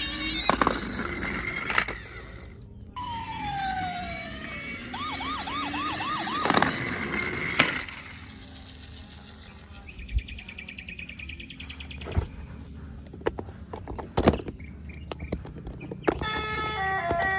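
Electronic toy police-car siren warbling fast, then a falling electronic tone, with several sharp knocks in between. A stretch of rapid ticking follows, and near the end a short beeping electronic tune starts.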